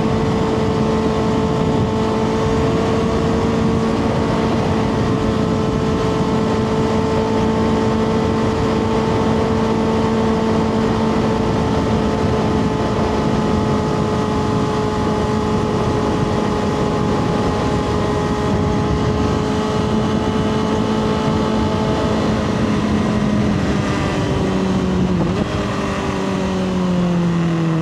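2024 Kawasaki ZX-6R's inline-four engine through a Two Brothers slip-on exhaust, holding a steady cruising note for most of the time, then falling in pitch in a few steps near the end as the bike slows and shifts down, with a steady rush of wind and road noise underneath.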